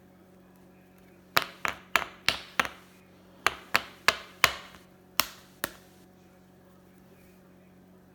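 About eleven sharp knocks on a hard surface in three quick runs of five, four and two, each with a brief ringing tail.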